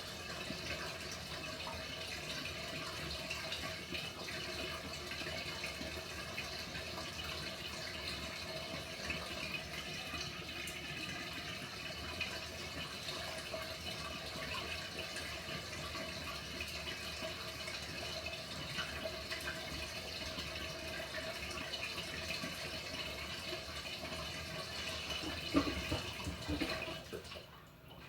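Water running steadily into the tub of a Panasonic NA-FA100H9 top-loading washing machine as it fills. The inflow cuts off near the end, with a few knocks just before it stops.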